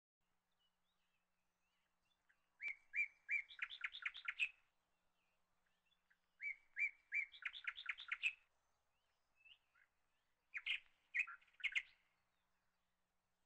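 A songbird singing the same short phrase three times, each a few spaced chirps that speed up into a quick trill, with silence between the phrases.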